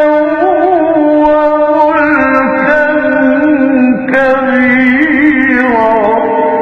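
A solo voice chanting Islamic religious text in long held, melismatic notes, with no instruments; the pitch shifts a few times.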